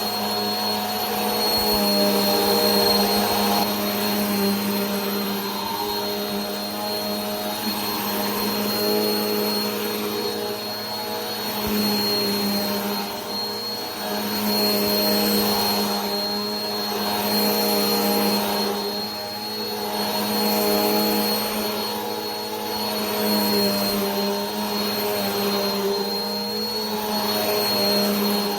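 Vacuum cleaner running continuously: a steady motor hum with a thin high whine over airy hiss. The loudness swells and eases every few seconds.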